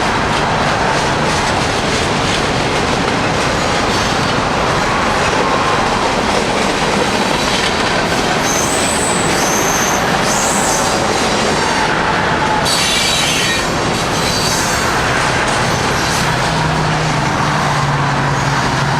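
Cars of a long CSX freight train rolling past, a steady loud rumble of steel wheels on the rails. About halfway through there are brief high-pitched wheel squeals.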